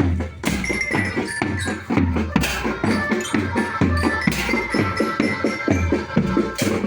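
School marching band playing: drums beat a steady, driving rhythm under a melody of high bell tones, with a cymbal crash about every two seconds.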